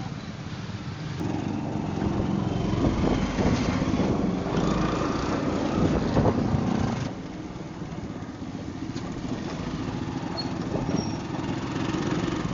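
A vehicle engine running. It grows louder about a second and a half in, stays loud for several seconds, then drops back to a lower steady level.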